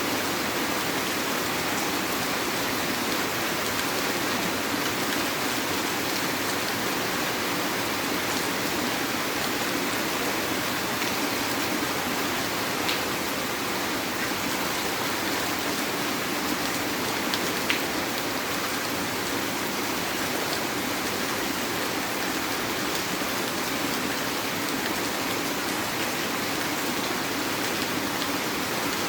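Heavy rain falling steadily, an even hiss of rain on surfaces with a few sharper drop ticks around the middle.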